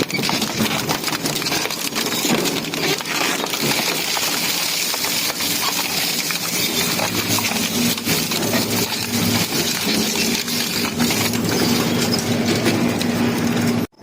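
Industrial metal shredder running, a steady motor hum under continuous crunching and clattering of metal being torn apart. It cuts off suddenly near the end.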